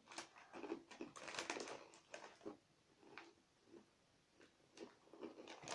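Faint, irregular crunching and crackling of crisps, tomato-flavoured, being eaten and handled.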